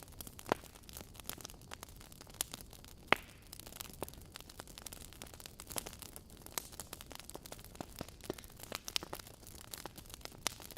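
Wood fire crackling: burning logs give off a steady stream of irregular sharp pops and snaps over a low hiss, with a louder pop about three seconds in.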